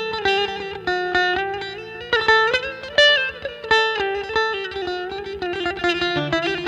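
Electric bağlama (saz) played through an iPad sound processor: a melody of quick plucked notes over a low held note.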